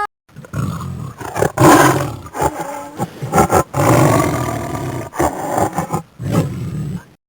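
Big cat, such as a lion, giving a run of rough, growling roars one after another, loudest about two seconds in.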